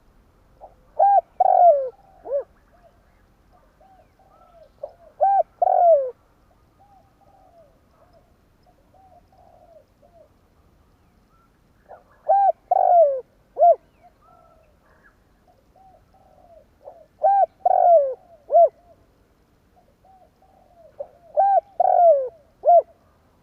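Spotted dove cooing: five loud phrases of a few arched coo notes each, spaced a few seconds apart, with softer coos between them.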